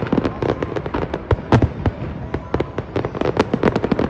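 Fireworks display: a dense, irregular barrage of sharp bangs and crackling reports, many a second, over a low rumble.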